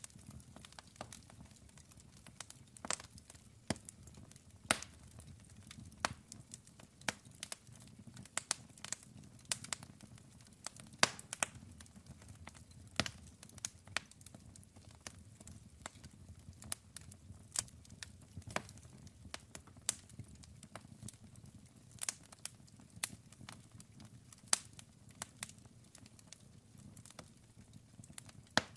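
Wood campfire burning, with irregular sharp crackles and pops over a low, steady sound of the flames.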